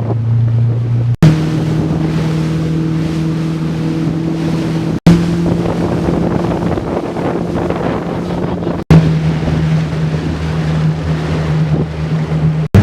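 Motorboat engine running at a steady pitch, with water rushing past and wind buffeting the microphone. The sound cuts off abruptly three times and resumes with a slightly different engine pitch each time.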